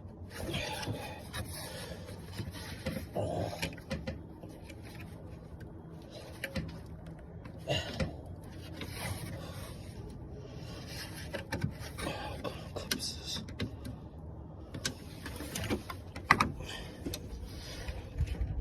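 Hand work on a car's radiator fan assembly: irregular clicks, knocks and rustling as tools and plastic and metal parts are handled, with a sharper click about 16 seconds in.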